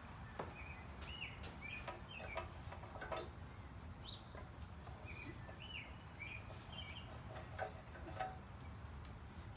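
Small birds chirping in short, repeated calls, with a few sharp clicks and taps over a low, steady background rumble.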